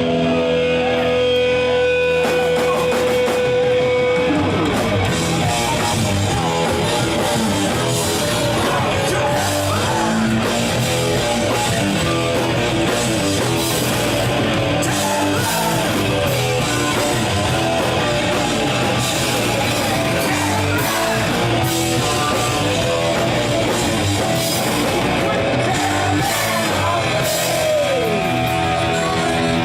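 Loud rock music with electric guitar, drum kit and singing. A held note gives way to the full band with drums about four seconds in.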